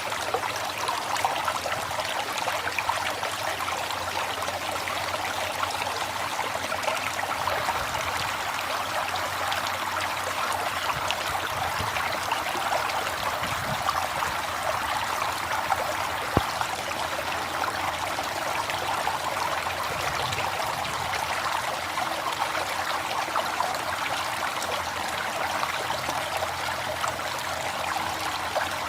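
River water flowing in a steady, unbroken rush, with one brief click about sixteen seconds in.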